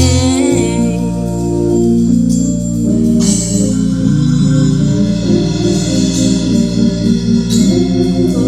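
Gospel music played on a Hammond-style organ: held chords over a steady bass line, with a drum kit and other instruments accompanying.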